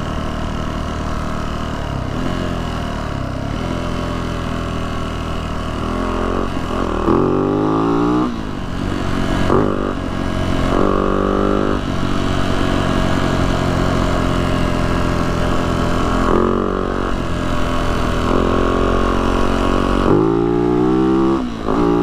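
Yamaha YZ450F dirt bike's four-stroke single-cylinder engine running while riding, rising in pitch several times as the throttle is opened.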